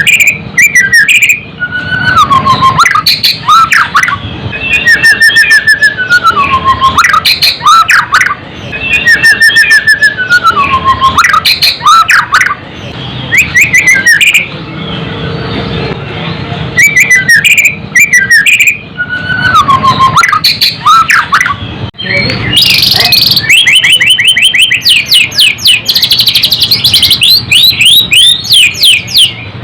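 White-rumped shama (murai batu) singing loudly: repeated whistled phrases that slide down in pitch, broken by fast clicking rattles, with a dense run of rapid notes in the last third.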